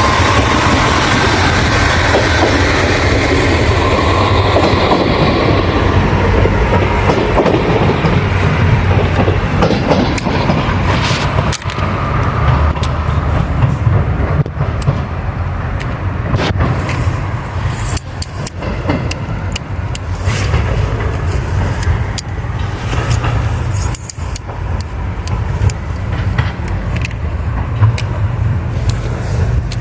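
Train passing close by: a loud, steady low rumble of wheels on rail, with repeated sharp clicks over the rail joints through the second half.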